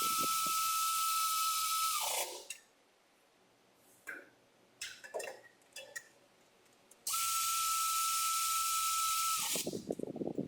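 Air-powered tool running free at high speed, a steady high whine with loud air hiss, for about two seconds and again for about two and a half seconds from about seven seconds in, its pitch winding down each time it stops. Quieter clinks and handling sounds come between the bursts, and a rattling comes just before the second stops.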